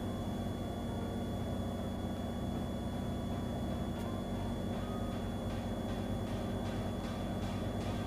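Cirrus SR22's six-cylinder piston engine and propeller droning steadily at reduced power on final approach, with full flaps set.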